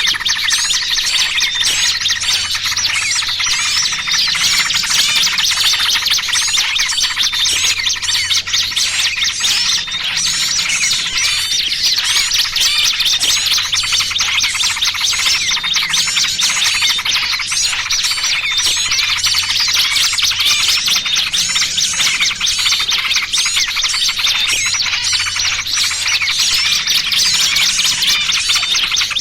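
A dense, continuous clamour of many small birds chirping and chattering at once: a trapping lure recording that mixes noisy yellow-vented bulbul (trucukan) calls with the distress calls of a pinched small bird.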